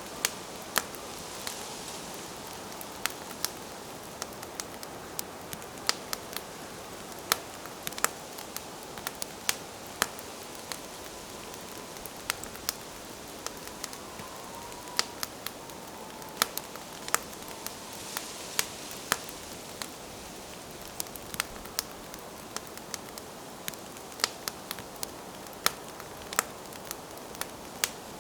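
Wood campfire burning, with irregular sharp crackles and pops over a steady soft hiss of the flames.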